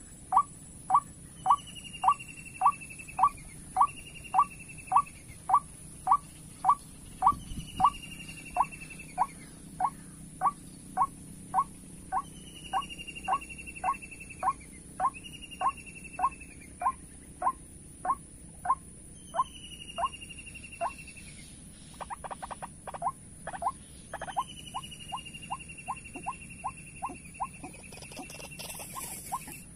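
White-breasted waterhen call, a steady rhythmic series of short notes about twice a second, quickening somewhat in the last third, such as is played or answered at a waterhen trap lure. Over it another bird gives repeated downward-sliding whistled notes every few seconds, and a steady high insect drone runs underneath.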